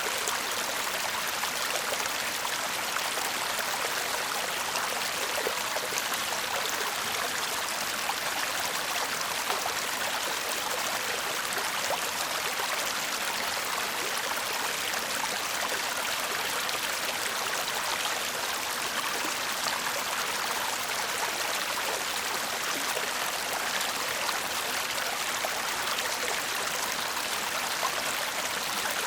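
Shallow stream murmuring and babbling over stones, a steady rushing of water with fine splashes and trickles throughout.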